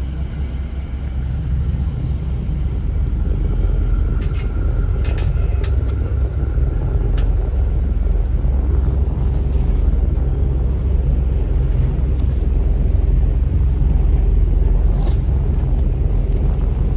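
River tourist boat under way: its engine gives a steady low rumble, with wind noise over the microphone and a few faint clicks.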